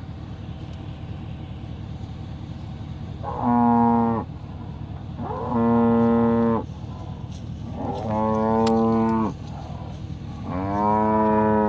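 Cows mooing: four separate long moos, each lasting about a second, a few seconds apart.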